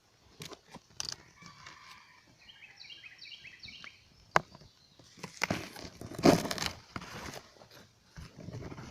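Outdoor garden sounds: scattered clicks and rustling, loudest in a noisy rush of rustling a little past the middle, with a bird singing a short run of quick high chirps about two and a half seconds in.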